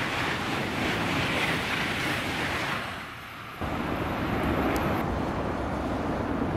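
A Eurostar high-speed train passing at speed: a steady rushing noise of wheels and air that fades out about three seconds in. Then, from an abrupt start, steady motorway traffic noise with wind on the microphone.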